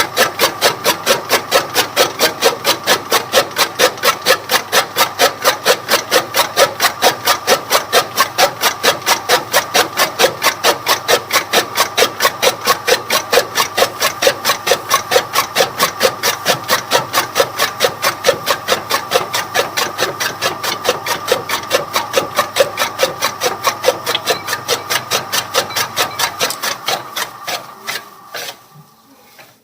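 Toka fodder chaff-cutter machine running, its rotating blades striking in a fast, even rhythm of about three strokes a second over a low steady hum. Near the end the hum stops and the strokes weaken and die away as the machine runs down.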